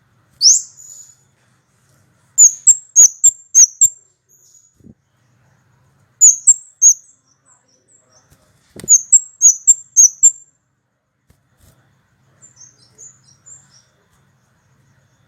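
Small songbird the uploader calls a kemade giving very high, sharp chirps in quick runs of four to six notes, every few seconds, with fainter notes near the end.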